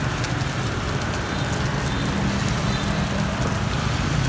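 Bột chiên (rice-flour cake) frying in oil on a hot pan, a steady sizzle, with motor traffic humming along the street behind it.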